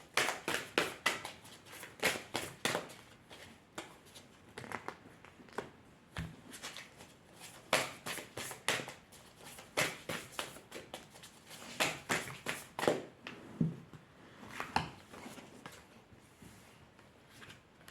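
Tarot cards being shuffled and handled by hand: a run of quick, irregular card flicks and taps that thins out after about 13 seconds.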